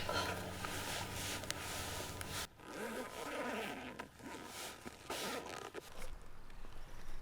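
Background music that cuts off about two and a half seconds in, followed by several short rasping pulls of a zipper.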